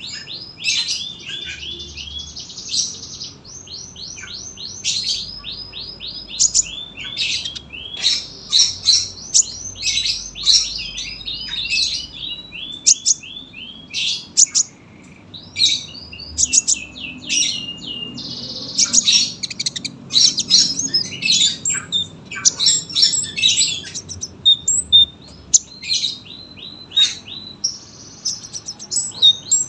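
Olive-backed sunbird (kolibri ninja) singing a continuous song of high, rapid chirps and trills, with many short falling notes repeated in quick series.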